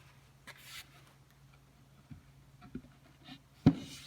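Faint handling noises of cabinet parts being glued and fitted, then one sharp knock near the end as a wooden panel is set in place.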